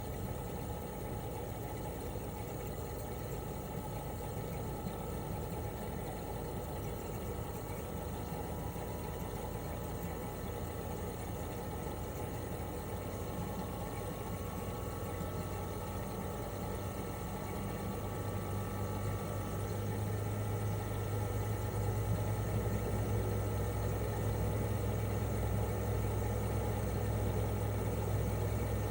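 Toshiba RAS-285BAD air-conditioner outdoor unit running in cooling mode: the inverter-driven twin-rotary compressor hums steadily under the propeller fan's whoosh. A faint tone drifts upward in the middle, and about two-thirds of the way through the low compressor hum grows stronger and slightly louder.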